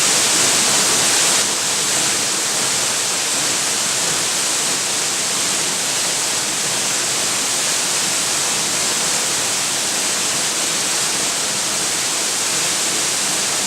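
Waterfall pouring, a steady, dense rushing of falling water that drops slightly in level about a second and a half in.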